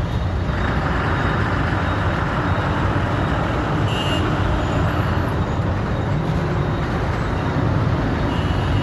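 Heavy trucks running along a road: a steady low engine rumble with tyre and traffic noise that swells for a few seconds in the first half. A brief high squeak about four seconds in.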